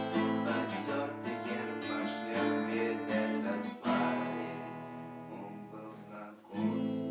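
Acoustic guitar being strummed: quick rhythmic strokes at first, then single chords about four seconds in and again near the end, each left to ring out and fade.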